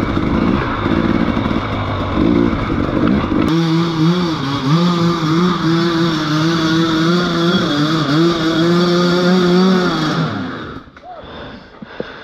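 Motorcycle engine running under way, with wind rush on the microphone. About three and a half seconds in, the sound changes abruptly to a steadier, even engine note, which fades away near the end.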